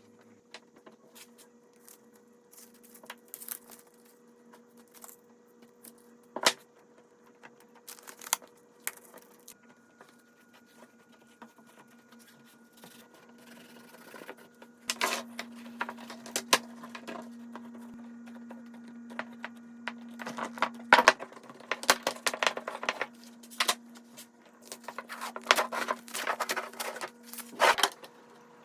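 Woodworking bench sounds: scattered clicks, taps and scraping as wooden pieces are handled, with a steady hum that comes in louder about halfway through and stops near the end.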